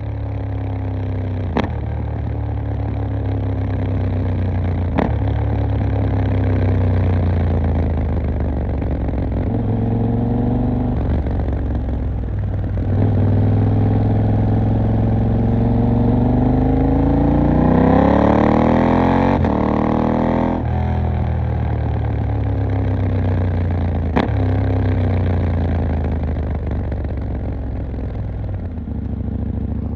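KTM 890 Duke R's parallel-twin engine running at low revs while ridden, then accelerating, its pitch rising for several seconds before it drops off suddenly about two-thirds of the way in. A few sharp clicks stand out over the engine.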